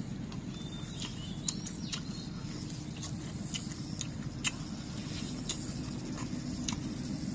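Close-up eating sounds: chewing and lip smacks as braised meat is bitten and gnawed, heard as scattered short wet clicks every second or so over a steady low background rumble.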